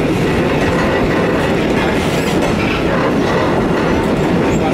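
Steam-hauled heritage train carriage running along the track, heard at an open carriage window: a steady, loud rolling noise of wheels and running gear.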